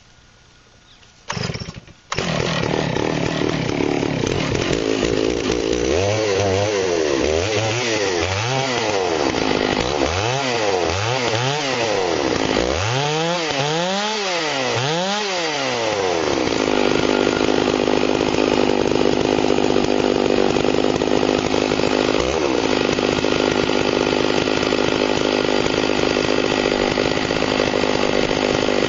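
Chainsaw on a chainsaw mill starting up about two seconds in, revved up and down several times, then held steady at full throttle as it cuts along the log.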